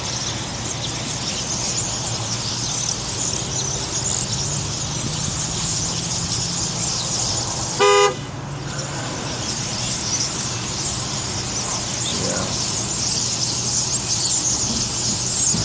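A car horn gives one short honk about halfway through, scaring a flock of birds. Around it, many birds chatter continuously over the steady low hum of the idling vehicle.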